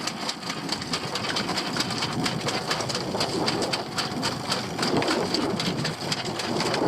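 Dense, steady pattering of water drops, rain or sea spray, on a small open fishing boat, made up of many fine crackles.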